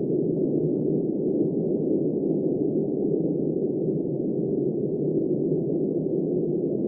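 Steady, dull rush of wind with no gusts or breaks, muffled and low-pitched.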